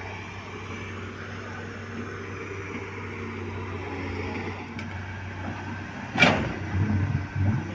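Heavy diesel engine running steadily. About six seconds in comes a loud bang, followed by a few louder knocks and clatters.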